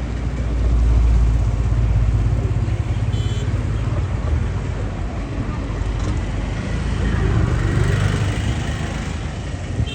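Road traffic, motorcycles and cars, passing close by with engines running; it swells about a second in and again around eight seconds.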